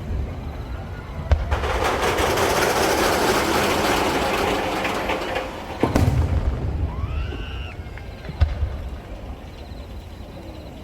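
Aerial firework shells bursting: a sharp bang about a second in, followed by several seconds of dense crackling, then two more bangs near the middle and later on.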